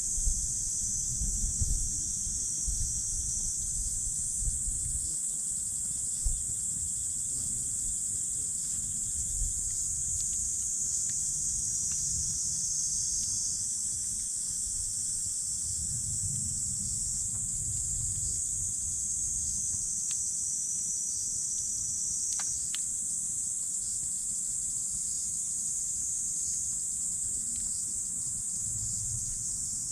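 A steady high chorus of insects, crickets among them, chirring without pause. Under it is a gusty low wind rumble on the microphone, and a campfire gives a few faint pops.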